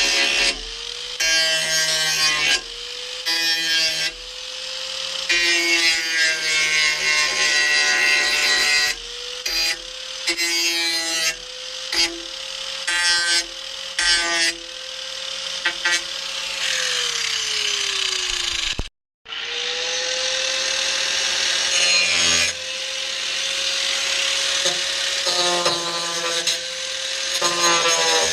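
A grinder running on sheet steel of a car roof's spot-weld areas to take them to bare metal: a steady motor whine with repeated harsh bursts of grinding as the disc bites. About two-thirds of the way in, the motor winds down and there is a brief break before it runs again.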